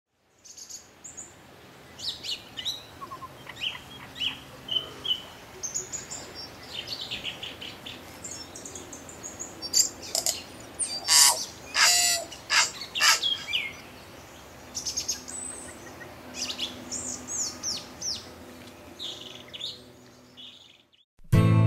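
Birds chirping and calling, a string of short high calls, loudest in the middle.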